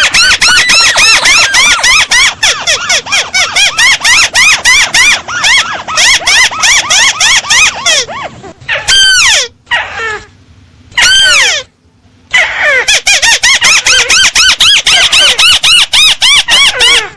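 Lure call of a 'burung tikusan' crake, played loud: a fast run of short, squeaky, rising-and-falling notes, about eight a second. Around the middle the run breaks into two long falling notes with short gaps, then the fast run starts again.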